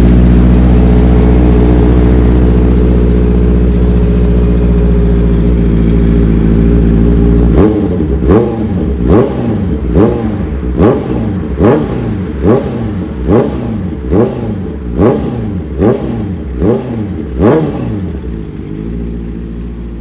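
Honda CBR650R inline-four engine held at a steady high note for about seven and a half seconds, then revved in quick throttle blips, a little more than one a second, each rising and falling in pitch, fading near the end.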